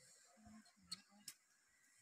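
Faint eating sounds: quiet chewing and mouth noises from biting into skewer-grilled food, with two sharp clicks about a second in.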